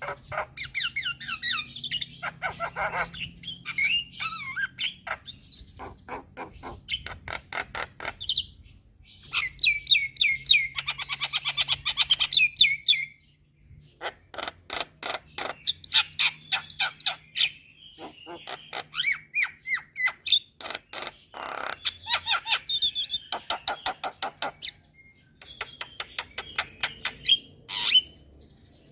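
Starling and myna (jalak) song used as a lure: rapid runs of dry clicking notes mixed with harsh squawking calls and short whistles, in bursts with a brief pause about halfway through.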